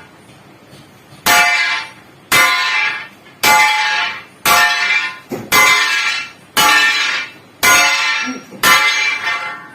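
Hammer striking the steel of a truck leaf spring, eight heavy blows about one a second, each clang ringing on like a bell.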